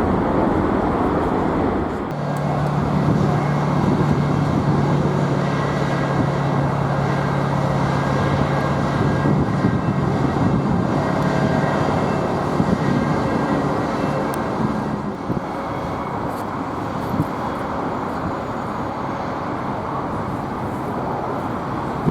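Boeing 747 jet engines running with a steady noise and a low hum, which sets in sharply about two seconds in and fades out around the middle.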